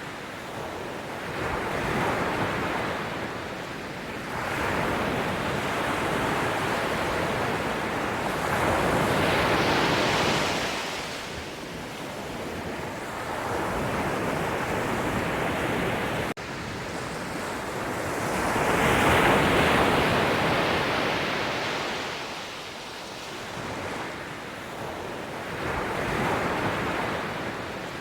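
Sea waves breaking and washing on the shore, the surf swelling and fading in slow surges every few seconds, with two bigger waves about ten and nineteen seconds in.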